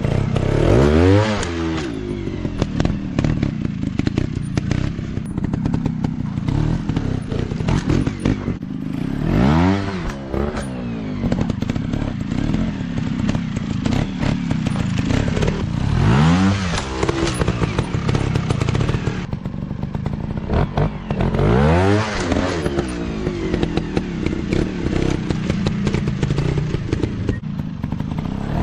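Off-road dirt bike engines running and revving in surges, the pitch climbing and falling again about every six seconds, with a steady engine note and rattling knocks in between.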